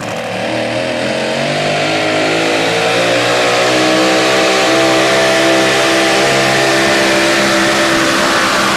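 Super modified four-wheel-drive pulling truck engine revving up over the first few seconds, then held at high revs at full throttle through a pull.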